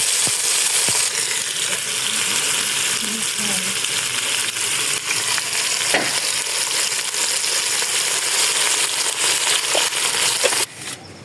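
Food sizzling loudly as it fries in a cooking pot, with a few sharp clicks; the sizzle cuts off suddenly near the end.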